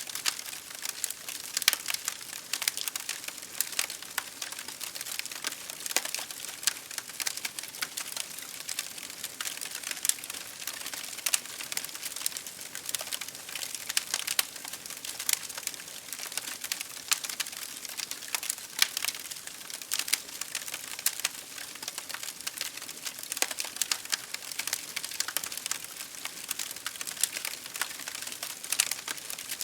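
Wood fire crackling in a fireplace, with rain pattering against a window pane: a steady patter shot through with frequent sharp crackles and pops.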